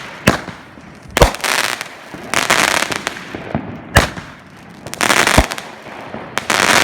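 A 9-shot consumer firework cake going off: four sharp bangs a second or more apart, with stretches of crackling hiss from the bursts in between.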